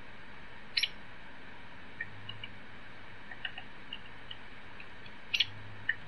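Recorded hairy woodpecker calls played back over computer speakers: short, sharp, high call notes. A loud doubled note comes about a second in, another pair near the end, and fainter short chirps fall between them.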